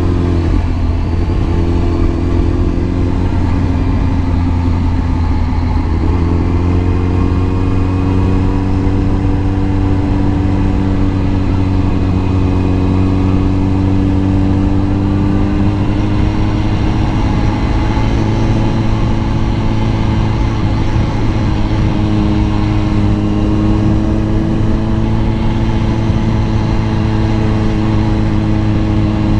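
Kawasaki ZX10R's inline-four engine running under way. Its pitch wavers and dips over the first few seconds, then climbs slowly and steadily as the bike gathers speed.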